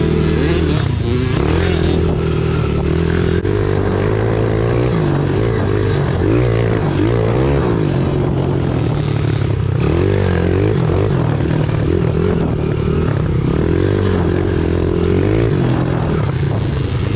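Pit bike engine running under load, its pitch rising and falling again and again as the throttle is opened and eased off.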